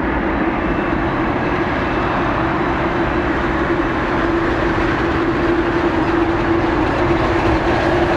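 Boeing 787-9 jet engines at takeoff thrust: a loud, steady roar with a drone running through it.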